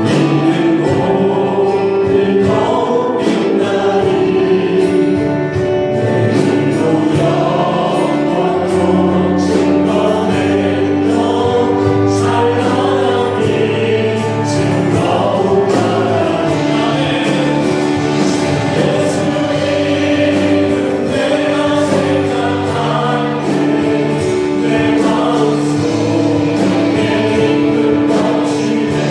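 A group of voices singing a Korean Christian worship song together with music accompaniment.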